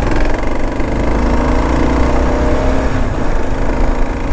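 Kawasaki KLR650 single-cylinder engine running steadily while the motorcycle rides along.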